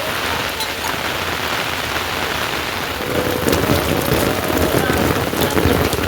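Steady rain falling, getting louder about three seconds in.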